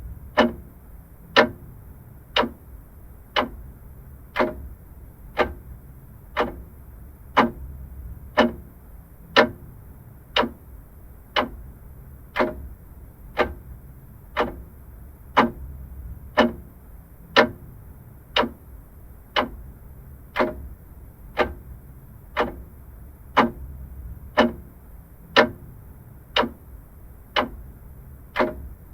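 Vintage mechanical clock ticking steadily, about one tick a second, some ticks louder than others, over a faint low background rumble.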